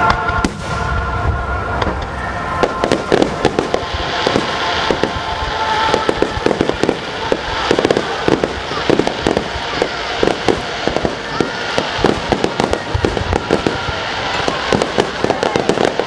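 Fireworks finale barrage: a dense run of shell bursts and crackling bangs, several a second, growing thicker about two and a half seconds in.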